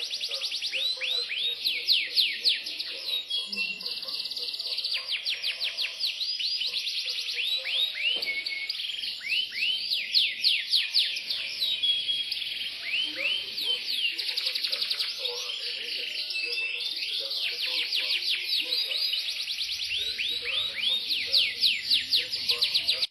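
Yorkshire canary singing a continuous song of rapid rolling trills: long runs of fast, falling notes repeated many times a second, broken by a few short held whistles.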